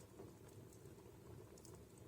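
Wood fire crackling faintly in a fireplace: a soft low rumble with a few small, sharp pops.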